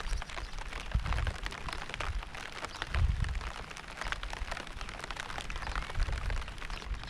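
Steady rain pattering, a dense crackle of drops, with low rumbling swells about one, three and six seconds in.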